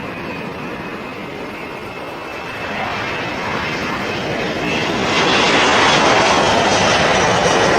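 Airplane engine noise growing louder as the aircraft comes closer: a steady rush that swells about a third of the way in and again past the middle, turning brighter and hissier.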